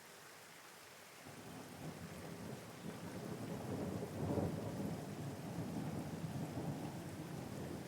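Steady rain with a roll of thunder. The low rumble comes in about a second in, swells to its loudest near the middle, then rumbles on under the rain.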